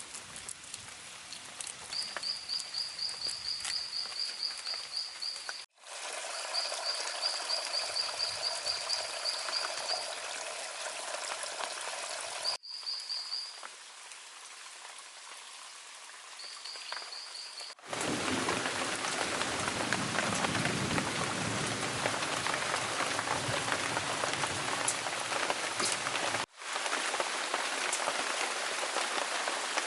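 Rain falling and pattering on surfaces, heavier in the second half, heard across several edited shots that start and stop abruptly. In the first half, a high, rapidly pulsing trill from an animal comes and goes over the rain.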